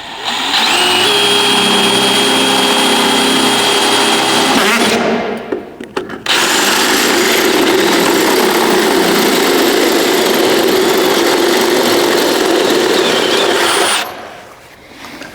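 Electric drill running under load through the steel door panel, cutting 1-inch holes for wiring boots. It runs in two long steady stretches with a steady whine, with a short break about five seconds in, and stops near the end.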